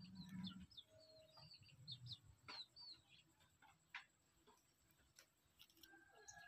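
Faint, quick series of short, high bird chirps through the first three seconds or so, with a few light ticks scattered through the rest.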